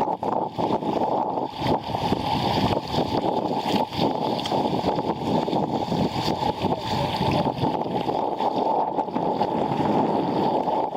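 Water rushing and splashing against a sailing sea kayak's hull as it runs fast through choppy waves, a continuous churning with frequent short splashes.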